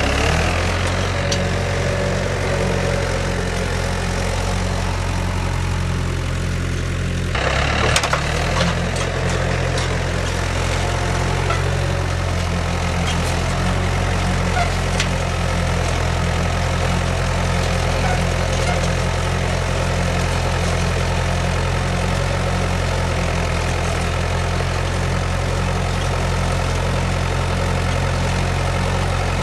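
Tractor engine running steadily, with a brief clatter and a slight shift in the engine note about seven to eight seconds in.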